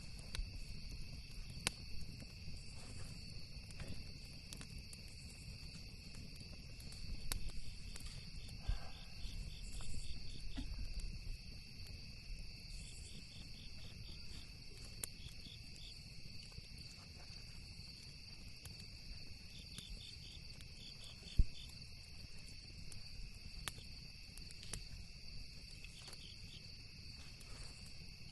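Steady chorus of crickets and other night insects with repeated short pulsed trills, over a campfire crackling with scattered sharp pops. One pop about three-quarters of the way through is much louder than the rest.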